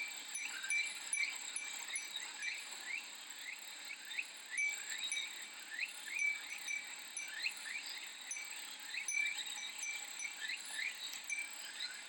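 Cicadas singing in a steady high-pitched chorus with many short repeated chirps, while a furin (Japanese wind chime) rings on and off.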